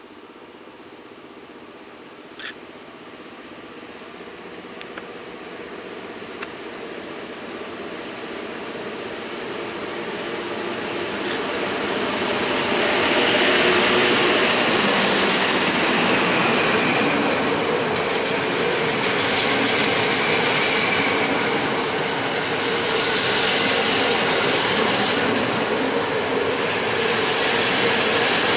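A PKP Intercity electric locomotive and its passenger coaches approaching along the platform, growing steadily louder over the first half. Then a steady rumble of wheels on rail as the coaches roll past.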